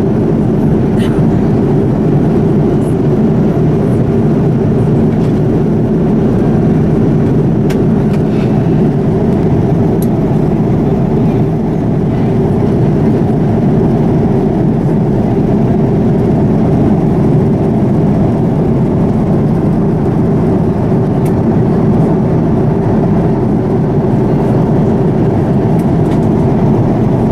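Steady cabin noise inside a Boeing 787-9 airliner: a constant low rush of engines and airflow, with a few faint clicks.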